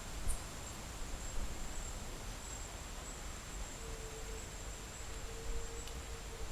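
Outdoor nature ambience: a steady hiss and low rumble with a thin, steady high-pitched tone throughout, and a faint held lower tone joining about four seconds in.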